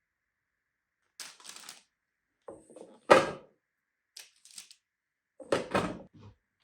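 Objects being handled: a few short knocks, clicks and rustles with gaps of silence between, the loudest a sharp knock about three seconds in.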